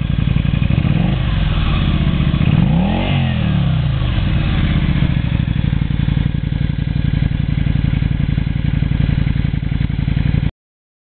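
Yamaha Drag Star V-twin running through a Daytona 2-into-1 aftermarket exhaust. It idles, is revved once about three seconds in with the pitch rising and falling back, then settles to a steady idle.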